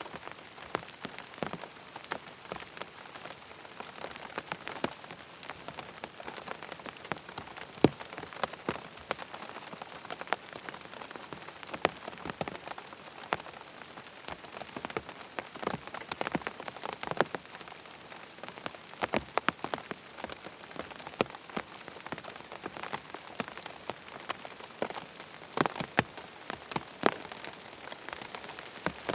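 Steady rain falling, with many sharp drop ticks scattered through it.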